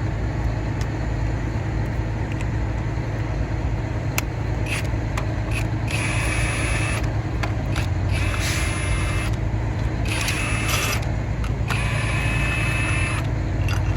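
A power ratchet spins a bolt out in four short bursts of about a second each, a whirring whine with a hiss, over a steady low background rumble.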